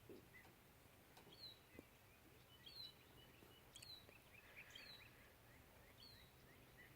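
Faint birdsong: a short, high, falling chirp repeated roughly once a second, with softer twitters between, over a quiet outdoor background.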